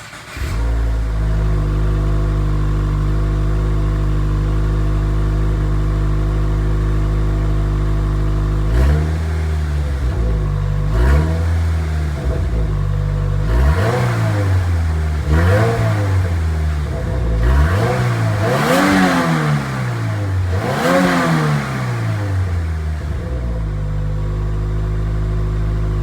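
2025 Subaru WRX's turbocharged 2.4-litre flat-four idling through its stock exhaust, then revved in about half a dozen quick blips that rise and fall, before settling back to idle near the end.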